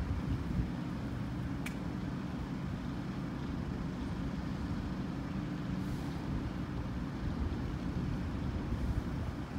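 Steady low engine rumble from a diesel multiple unit approaching slowly along the line, with a faint click about a second and a half in.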